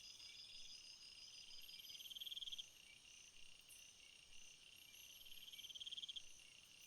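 Faint chorus of crickets and similar insects stridulating: several steady high trills overlapping. One louder pulsing trill swells for about a second and cuts off, once about two and a half seconds in and again about six seconds in.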